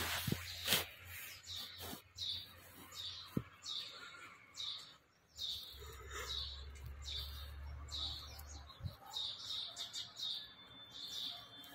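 A bird chirping over and over, a short falling chirp about every two-thirds of a second in a steady rhythm.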